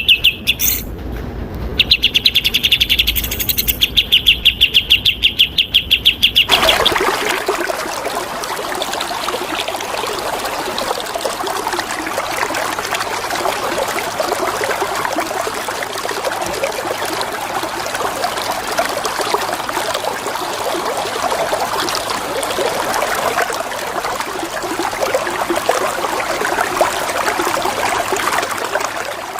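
A songbird repeating a fast, high, rattling call for about six seconds, with a short break about a second in; then it stops abruptly and a steady rush of flowing water fills the rest.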